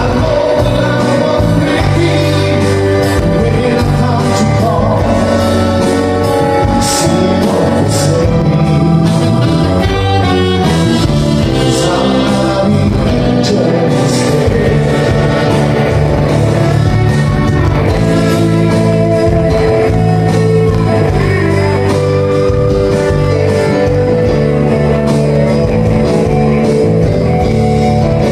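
Live band playing a song with a lead vocal over guitar, bass and drums, in a large hall.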